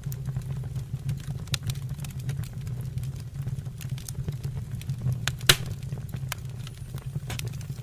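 Fire burning in a fireplace: a steady low rumble with scattered crackles, and one loud pop about five and a half seconds in.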